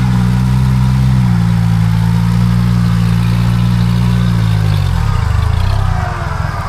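Off-road 4x4's engine held at steady high revs, then the revs drop away about four and a half seconds in and it settles into a lower, lumpy running.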